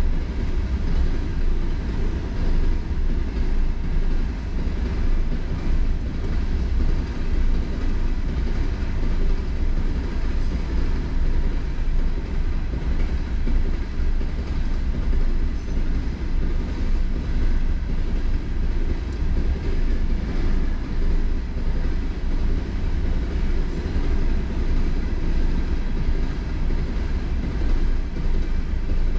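Coal train's cars rolling past at a road crossing, a steady low rumble and rattle of wheels on rail, heard from inside a car waiting at the crossing.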